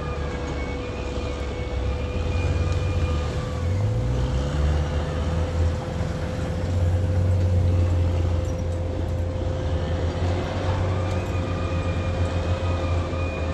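Caterpillar D6R XL bulldozer's diesel engine running, revving up about four seconds in and holding at higher revs under load, with a steady high whine throughout.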